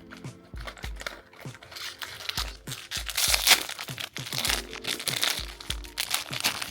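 Packaging of a Sonny Angel blind box crinkling and tearing as it is opened, loudest in the middle, over background music with a steady beat.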